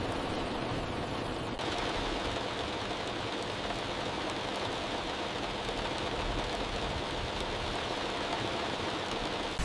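Heavy rain falling as a steady, even hiss, turning slightly brighter about a second and a half in.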